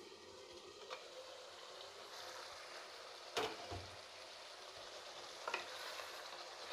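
Goat liver curry masala sizzling steadily in mustard oil in a kadai, fried down until the oil separates, with three short knocks of a utensil against the pan, the loudest about halfway through.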